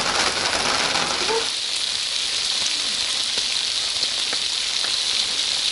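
Steady rain falling, a dense hiss; about a second and a half in the lower part of the sound drops away, leaving a thinner high hiss with a few faint drips.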